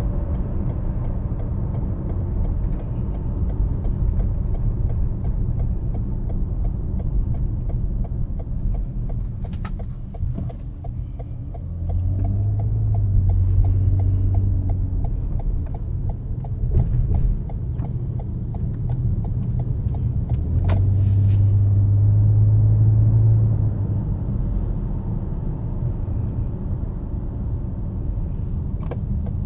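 Low road and engine rumble inside the cabin of a 2014 Toyota Highlander while driving. About twelve seconds in and again about twenty seconds in, a louder low drone rises over the rumble for a few seconds, with a few faint clicks.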